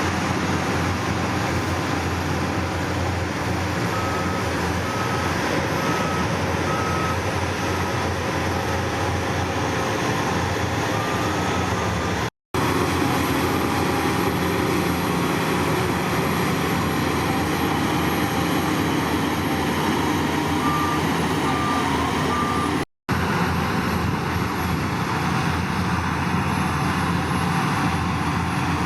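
Heavy diesel construction machinery running steadily, with a reversing alarm beeping about once a second in a few short spells. The sound cuts out briefly twice.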